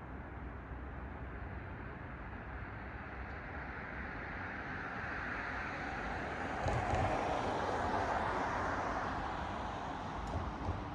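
A car passing on the road: tyre and road noise swells to a peak about two-thirds of the way in, then fades, over a steady hum of traffic.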